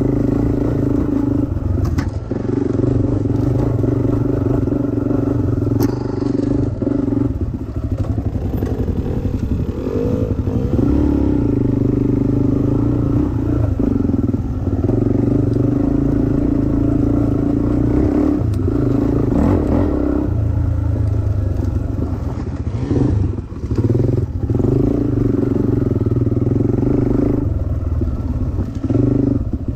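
Dirt bike engine running hard under throttle, easing off briefly every few seconds and picking up again, with rattling.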